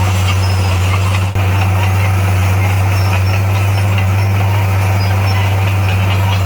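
Heavy diesel engine of a bulldozer running steadily at a constant speed, a loud, even low drone with a very brief dropout about a second in.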